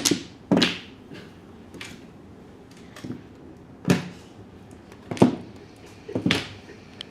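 Mahjong tiles clacking onto the table as they are discarded and handled: about seven sharp, separate knocks at irregular intervals, a second or so apart.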